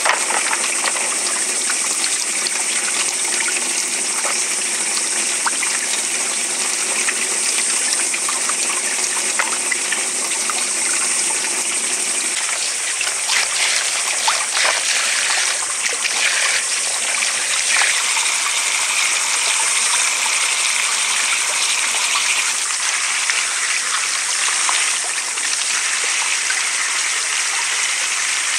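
Water running steadily, with a few light knocks about halfway through; the lower, fuller part of the flow drops away about twelve seconds in.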